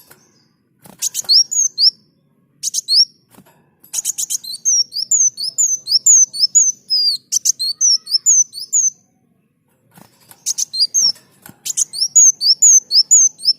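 Kolibri daun singing in high-pitched, rapid phrases: each opens with quick dry ticks and runs into a string of fast slurred chirps, repeated in bursts with short pauses between.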